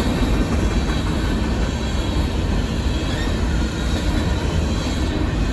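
Union Pacific coal train rolling past: a steady rumble of steel wheels on rail, with a faint high squeal from the wheels.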